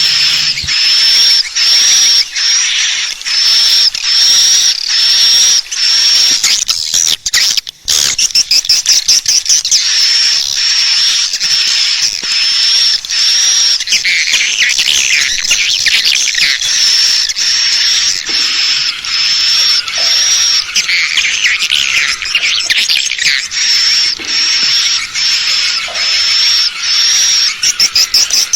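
Swiftlet lure call recording, the call played to draw swiftlets in to roost and nest: a sharp high chirp repeated about twice a second over dense twittering. The sound drops out briefly about seven seconds in.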